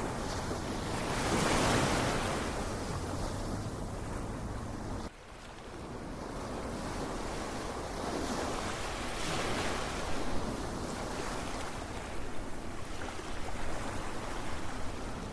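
Ocean waves washing on a shore, a steady rush that swells and recedes in slow surges. About five seconds in the sound drops off suddenly, then fades back up.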